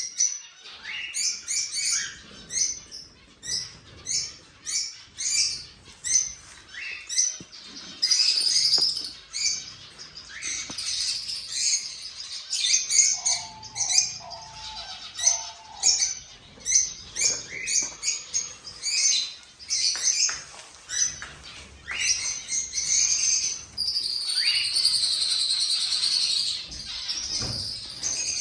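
Cockatiels chirping and calling, a dense run of short, repeated high-pitched chirps, with a few longer calls toward the end.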